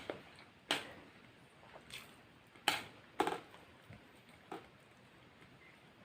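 A person eating KFC fried chicken: about five short, crunchy bites and chews, the loudest two close together about three seconds in.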